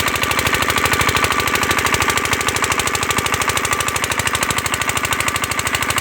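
Diesel engine driving an irrigation water pump, running steadily with a rapid, even chugging of about twelve beats a second.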